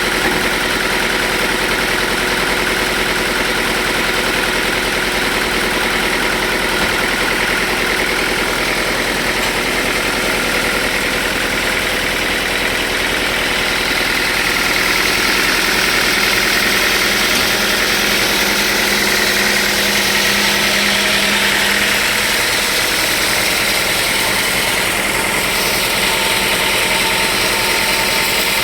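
Sawmill machinery running steadily: a constant engine-like drone with a hiss over it, growing a little louder about halfway through.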